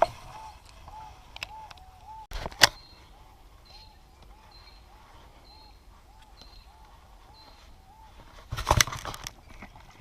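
A bird calling over and over, short rising-and-falling notes about twice a second, with a faint high peep repeating through the middle. A sharp knock comes about two and a half seconds in, and a louder clattering burst near the end.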